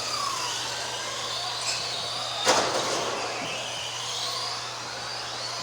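Electric motors of several radio-controlled Euro racing trucks whining, rising and falling in pitch as they speed up and slow down around the track. One sharp knock about two and a half seconds in, as from a truck striking a barrier or another truck.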